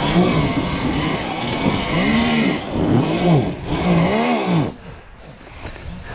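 Sur-Ron Ultra Bee electric dirt bike motor whining up and down in about four throttle bursts, over a hiss of tyre and ground noise. It cuts off sharply almost five seconds in.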